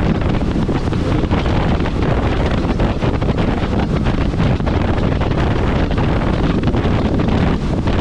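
Wind buffeting the microphone over the steady running noise of a Kawasaki jet ski underway on the water.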